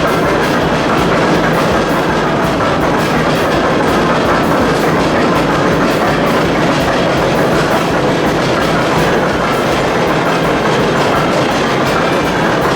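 Old steam-driven machinery running with a loud, steady clatter of rapid, regular knocks.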